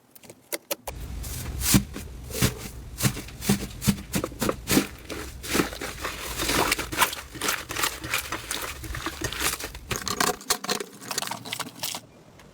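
Slime being squeezed and poked by hand, giving a dense, irregular run of sticky pops, clicks and crackles close to the microphone, over a low hum from about a second in.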